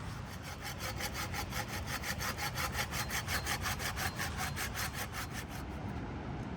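Hand saw cutting through wood in fast, even strokes, about five a second, stopping shortly before the end.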